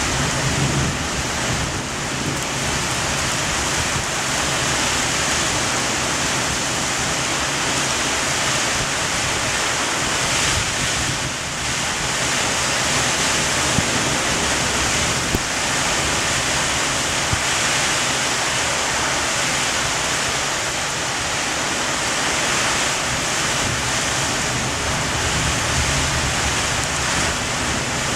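Heavy thunderstorm rain and strong wind rushing steadily, a dense even roar of noise with a few faint sharp ticks in the middle.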